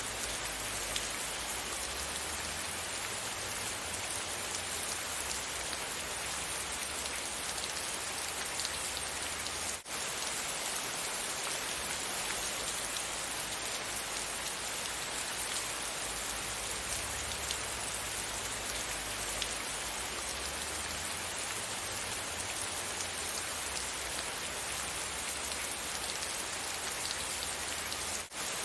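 Steady rain falling, a dense even hiss with fine ticks of individual drops. The sound drops out for an instant twice, about ten seconds in and near the end.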